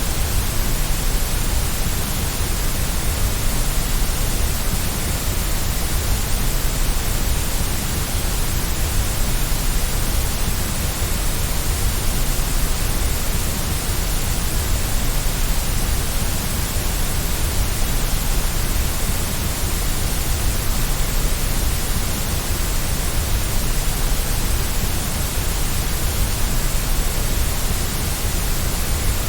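Steady white noise, an even, unchanging hiss.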